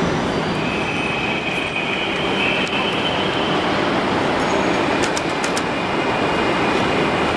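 Steady rumbling noise of a train at a station platform, with a high-pitched squeal lasting about three seconds near the start and a few sharp metallic clicks about five seconds in.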